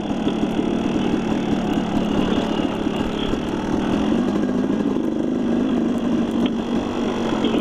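Dirt bike engine running steadily, an even mechanical drone with no break or change.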